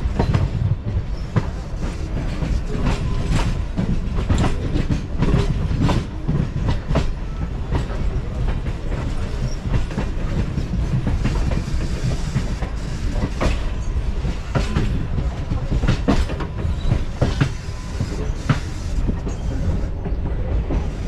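Electric suburban local train running between stations, heard from inside the coach: a steady low rumble with frequent irregular clacks of the wheels over rail joints.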